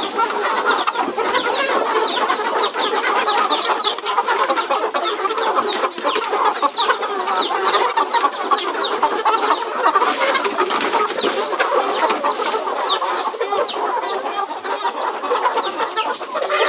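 A flock of young chickens clucking and peeping all together without a break, with many short high peeps that fall in pitch.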